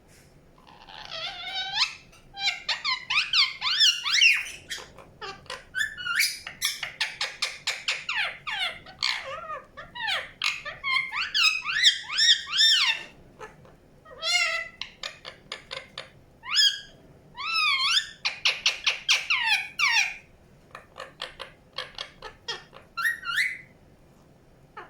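Indian ringneck parakeet calling: bouts of high, squeaky chirps and squawks that slide up and down in pitch, with a fast run of short rattling chirps past the middle and short pauses between bouts.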